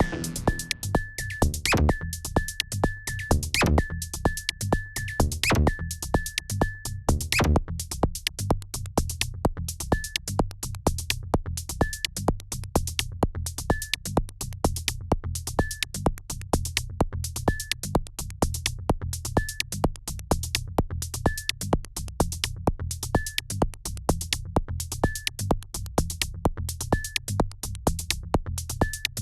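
Live electronic techno from a Korg Volca Drum, Volca Bass and Volca FM: a fast, even drum-machine beat over a low bass line. A short high synth blip repeats in quick runs for the first seven seconds or so, then sounds about once every two seconds.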